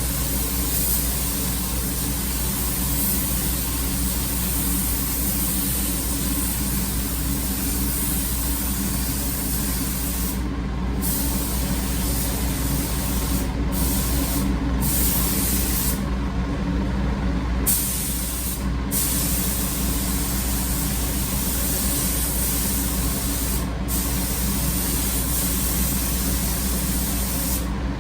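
Automotive paint spray gun laying down a coat of single-stage paint: a steady hiss of air and atomised paint, cut off briefly several times as the trigger is released between passes, over a steady low hum.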